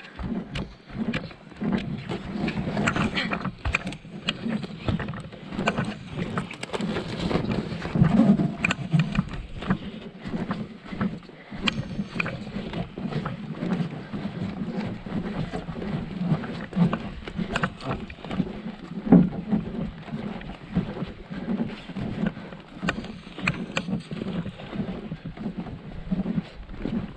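Water splashing and sloshing around a small paddled boat, with irregular knocks and strokes.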